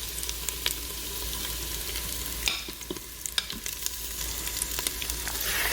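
Onions and marinated chicken sizzling in hot oil in an Instant Pot on sauté mode, with scattered clicks of a utensil against the pot. The sizzle grows louder near the end.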